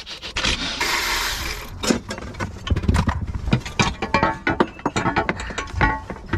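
Hand tools working on a boat engine's flywheel housing: rapid ratchet clicks and metal clanks as the housing is unbolted, with a short rush of noise about a second in.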